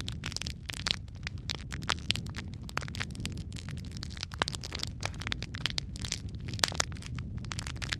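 Wood fire crackling in a fireplace: a steady low hiss and rumble with dense, irregular snaps and pops, a few louder pops standing out.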